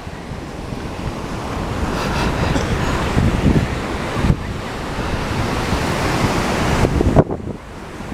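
Ocean surf washing in steadily, with wind buffeting the microphone in low rumbles.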